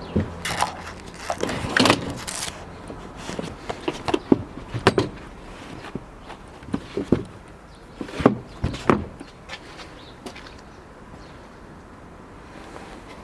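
Clicks and knocks from the Peugeot 5008's folding rear seats being handled: latches clicking and seat parts knocking into place in scattered groups over the first nine seconds, then fewer sounds near the end.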